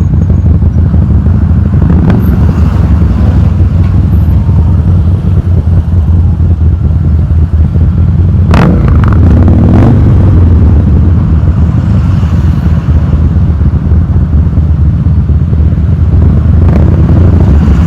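Harley-Davidson V-twin motorcycle engine running loud through an aftermarket exhaust, a steady deep rumble with no big revs. A few sharp cracks cut through, about halfway in and again near the end.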